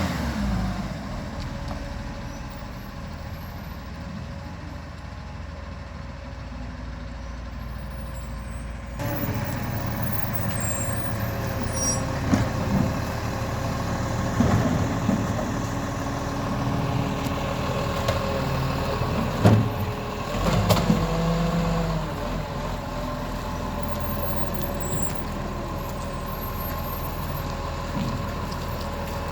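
Garbage truck running with a steady engine hum; the sound changes abruptly about nine seconds in, and a run of knocks and clanks follows, loudest about twenty seconds in.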